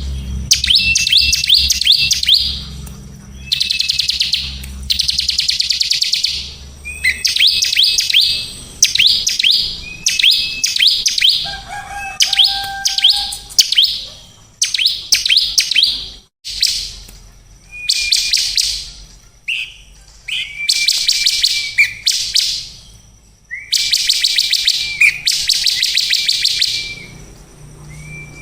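A songbird singing in repeated bursts of rapid, high trills and strings of sharp sweeping notes, each phrase lasting one to two seconds with short pauses between.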